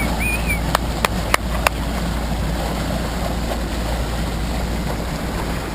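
Dive boat under way: its motor running steadily with a constant rush of water. A short high whistling tone at the very start, and four sharp clicks around one to one and a half seconds in.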